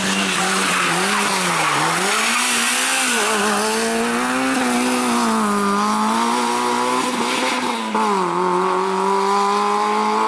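Rally car engine running at high revs, its pitch falling and climbing again and again as the car accelerates, lifts off and changes gear through bends.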